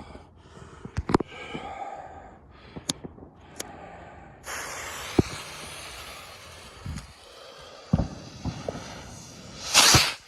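Fireworks going off: scattered sharp bangs, a steady hissing rush from about halfway, and a loud crackling burst near the end.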